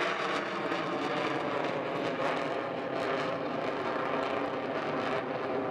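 Aircraft engine noise, loud and steady, without a break.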